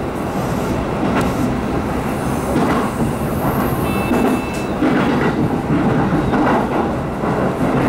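Train running along the track, heard from inside the passenger car: a steady rumble with the clickety-clack of wheels over rail joints, and a brief thin whine about four seconds in.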